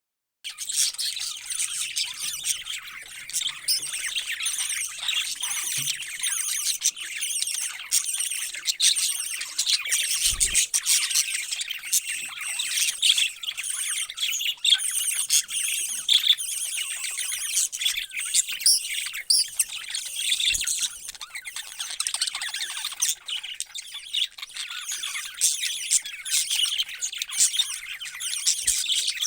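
A flock of small parrots chirping and chattering continuously, with some squawks mixed in, and a soft knock now and then.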